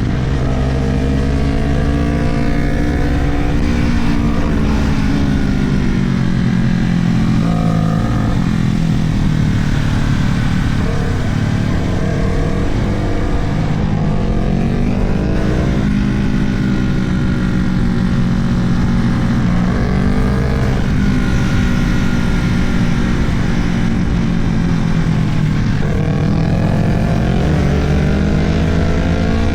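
Small sport motorcycle engine at hard riding, its pitch climbing under acceleration and dropping back again several times as the rider shifts and slows, with steady wind noise on the microphone.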